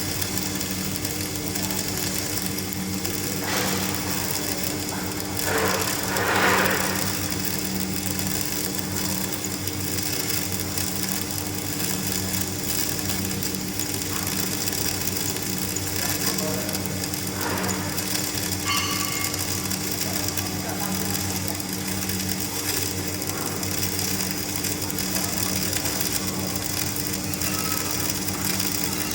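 Electric welding: a steady buzzing, crackling hiss over a constant electrical hum, swelling louder briefly a few seconds in.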